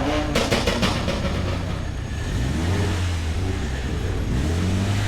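A car engine runs at low revs while the car is manoeuvred slowly. Its deep, steady rumble grows stronger about halfway through.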